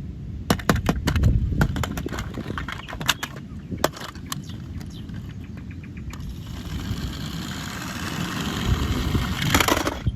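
Small plastic toy vehicles being handled: a quick run of sharp clicks and knocks, then a rough rolling, scraping noise that builds over a few seconds and stops near the end.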